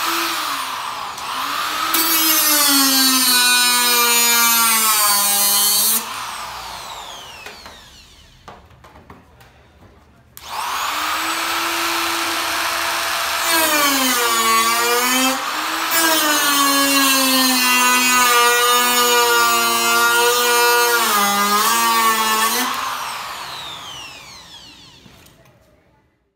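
Power tool cutting into the car's sheet-metal hood in two long runs. The whine sags in pitch as it bites, and each run ends with the tool spinning down: after the first run about six seconds in, and after the second near the end.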